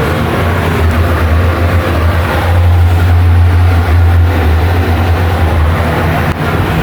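Loud, steady low hum from a Mitsubishi elevator's noisy cabin ventilation fan, with a rushing noise over it, swelling a little in the middle.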